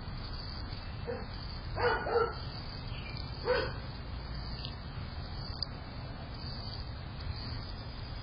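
A dog barking: a few short barks in the first four seconds, two of them in quick succession.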